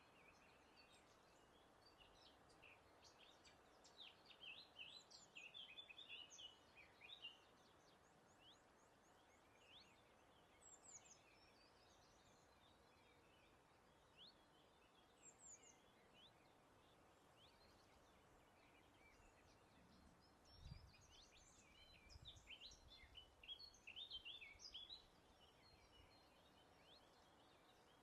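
Faint songbirds chirping and trilling in quick bouts, busiest twice, with single calls between, over a soft steady background hiss. A brief low rumble comes about two-thirds of the way through.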